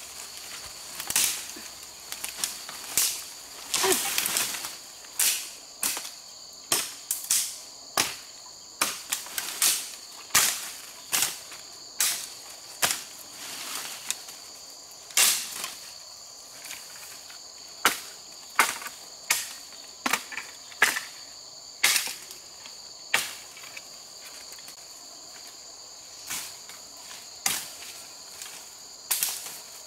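Sharp, irregular knocks about once a second, with a steady high insect trill behind them.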